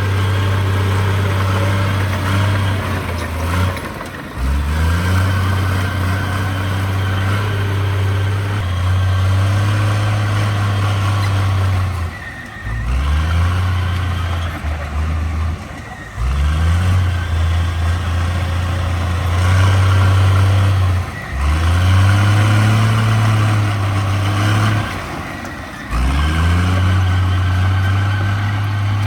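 Heavy diesel engine of a working bulldozer, running loud and steady. Five times its pitch drops away and then climbs back, as the machine's load and throttle change.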